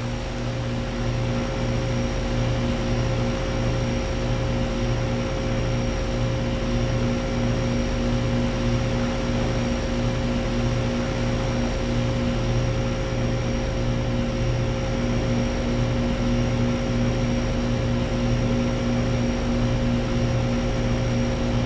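Residential central air conditioner condensing units running: a steady electric hum from the compressors over the even rush of the condenser fans.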